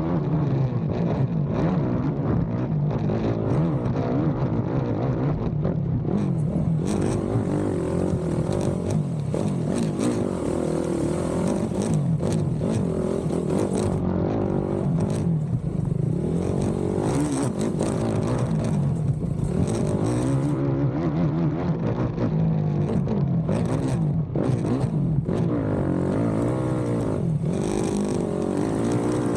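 Racing ATV engine revving hard and dropping back again and again as the quad is ridden over a cross-country track, with frequent knocks and clatter from the rough ground.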